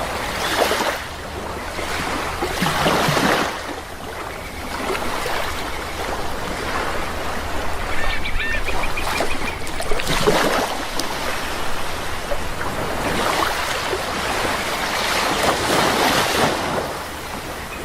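Sea waves washing in and drawing back in repeated surges, with a few short bird calls about eight or nine seconds in.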